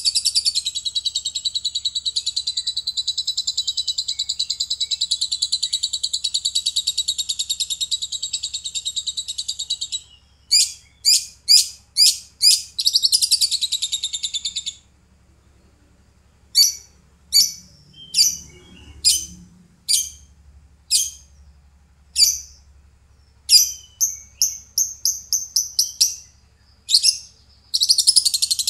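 Lovebird chattering in its rapid, high-pitched 'pekkepek' trill: a continuous fast trill for about ten seconds, then a few sharp separate chirps and a short burst of trill, a pause, and a string of single sharp chirps about one a second before the long trill starts again near the end.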